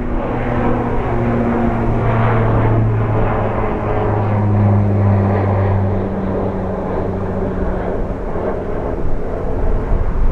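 Airliner on final approach passing close by, its engines giving a loud drone with steady low tones that drift slightly down in pitch, fading over the last couple of seconds.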